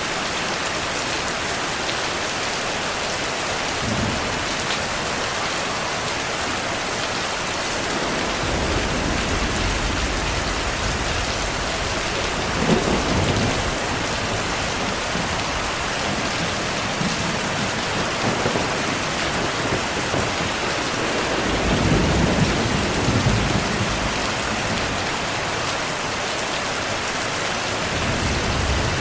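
Steady rain with rolling thunder. A low rumble swells about eight seconds in, peaks near the middle, and fades, and a second rumble rolls through later on.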